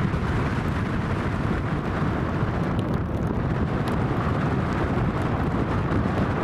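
Strong wind buffeting the microphone: a steady low rumble with no clear engine whine or other distinct sound.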